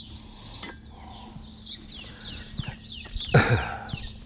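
Birds chirping outdoors in quick, falling notes throughout, over a steady low hum, with one loud clatter of junk being handled about three and a half seconds in.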